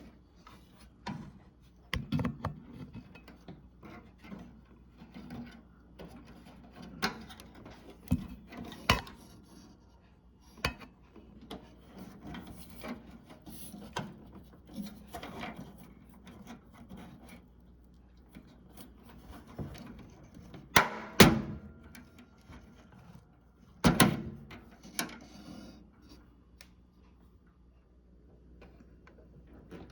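Irregular plastic clicks, knocks and scraping as a microwave's door switch assembly and its plastic mounting are pried at and worked loose by hand, with two louder knocks about two-thirds of the way through.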